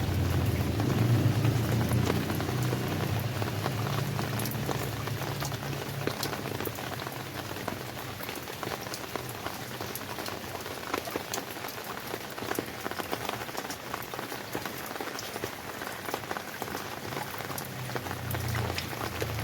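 Rain falling steadily, with many separate drops tapping out of an even hiss. A low rumble is there at the start, fades away over the first few seconds, and comes back near the end.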